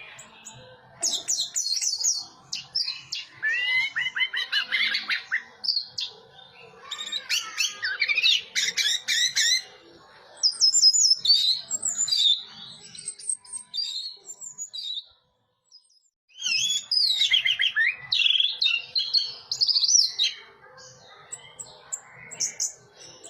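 Orange-headed thrush singing a varied song of fast whistled notes that glide up and down, in loud bursts separated by short pauses, with a brief silent break about two-thirds of the way through.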